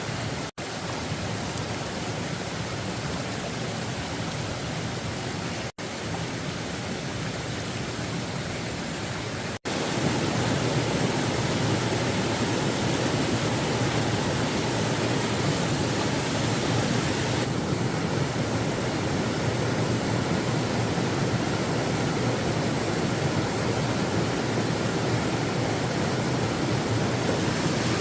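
Steady rushing noise of rain and running water. It is broken by brief cut-outs about half a second, six seconds and ten seconds in, and after the last one it runs on louder.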